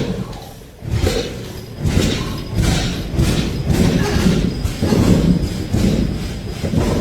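Old stationary engine running with heavy, low thumping beats, about one a second at first and coming closer together later.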